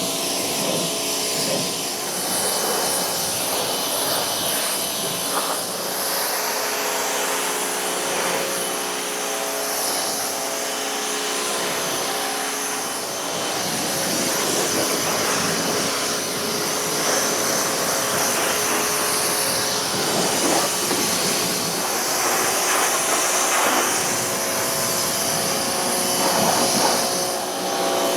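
Pressure washer running steadily: its motor and pump hum under the loud hiss of the water jet spraying a truck's chassis.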